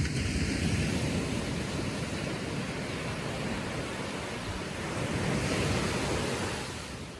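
Small ocean waves breaking on the shore: one breaks suddenly at the start and washes up, and a second swells up about five seconds in and fades away near the end.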